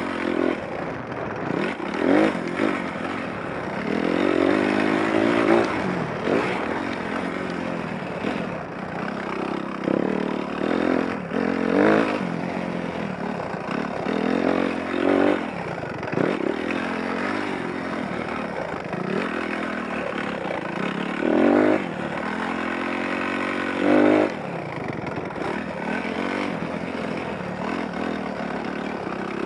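Dirt bike engine under way, the throttle opened and shut again every few seconds so its pitch climbs and drops back with each burst.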